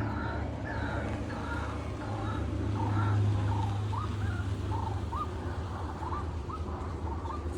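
A bird calling over and over in a long series of short notes; from about halfway on they are quick upward-rising notes, about two a second. A steady low hum runs underneath.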